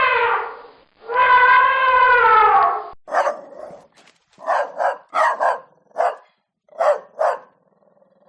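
Two long, drawn-out howls, the first falling away at its end and the second rising and then falling, followed by a dog barking about nine times in short sharp barks, several of them in quick pairs.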